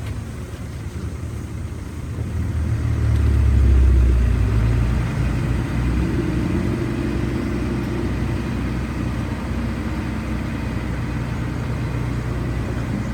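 Heavy diesel engine of earth-moving equipment running; it revs up about two seconds in, is loudest around four seconds, then settles into a steady run.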